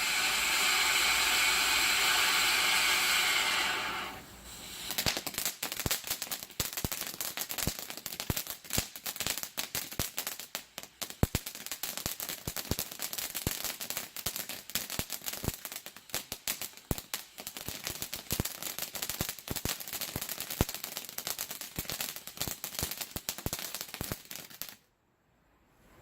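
Black Cat Pot of Gold fountain firework spraying sparks with a steady hiss. About four seconds in it switches to its crackle effect, a dense stream of rapid small pops. It stops abruptly about a second before the end.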